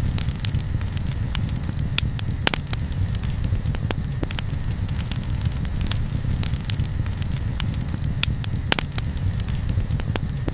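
Campfire crackling: scattered sharp pops, two louder than the rest, over a steady low rumble. A faint high chirp repeats a little more often than once a second.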